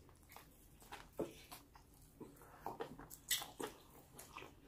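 Close-miked eating of a sub sandwich: a bite followed by wet chewing, with soft mouth smacks and clicks, a few sharper ones around a second in and again about three seconds in.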